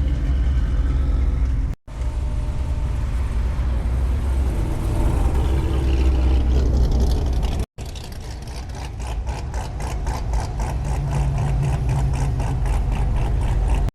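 A vehicle engine running near the microphone, a steady deep rumble, with an even pulsing of about five beats a second in the second half. The sound cuts out completely for an instant twice.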